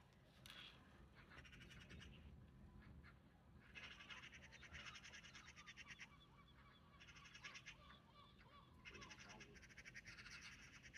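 Eurasian magpie chattering: a harsh, rapid rattling call, repeated in several bursts over a low steady hum.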